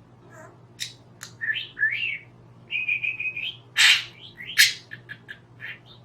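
English budgie chattering: short chirps and warbled notes, with a quick run of repeated notes about halfway through and two louder, sharper sounds just after.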